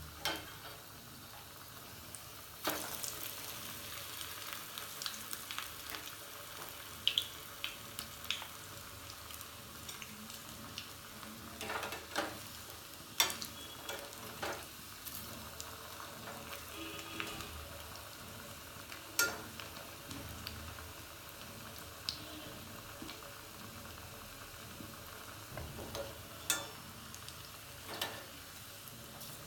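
Maggi noodle cutlets shallow-frying in hot oil, a steady sizzle with scattered light clicks.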